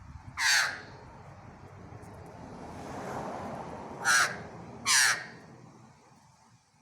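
A crow cawing three times: one harsh caw near the start, then two more close together a little past the middle. A softer rushing noise swells and fades between the calls.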